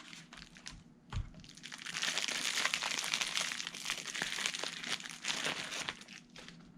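Plastic bubble wrap crinkling and crackling as it is unwrapped from a battery pack, quieter at first and busiest from about two seconds in until near the end.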